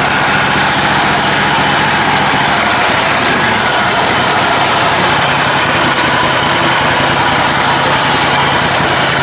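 Engine of a lifted, modified lawn tractor running steadily at an even speed.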